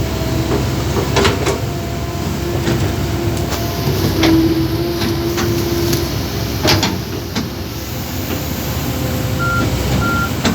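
A vehicle engine running steadily, with several sharp knocks and a held tone in the middle, then a few short high beeps near the end.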